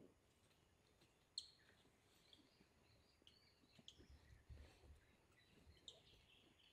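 Faint forest birdsong: a few short, sharp high chirps every second or two over soft, high warbling, with a faint low rumble around the middle.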